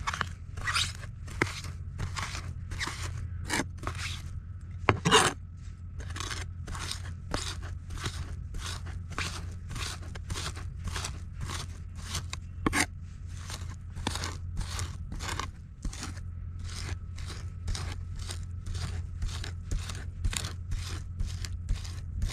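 Knife cutting crisp food in steady, even strokes, about two a second, with one louder stroke about five seconds in. A low steady hum sits underneath.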